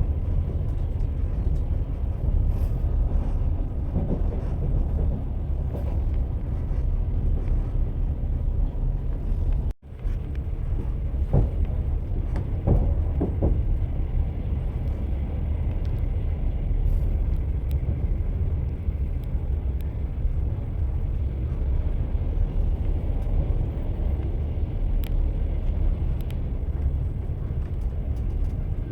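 Train wheels running on rails, a steady low rumble with a few knocks a couple of seconds after the sound drops out for a moment about ten seconds in.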